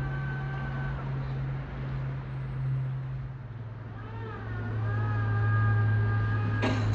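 Train at a station platform, its machinery humming steadily. Whining tones from the traction equipment stop about a second in, and a new set glides in about four seconds in and then holds. A few sharp clicks come near the end.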